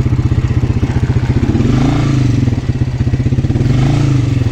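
Quad bike engine running under way, with a fast even throb, its pitch swelling and dipping a few times with the throttle.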